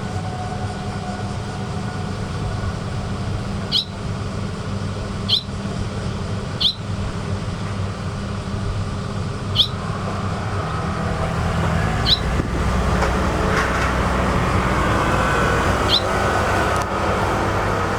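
Barn swallow giving short, sharp single chirps, six in all, spaced a second or more apart. A steady traffic rumble runs underneath and swells in the second half as a vehicle passes.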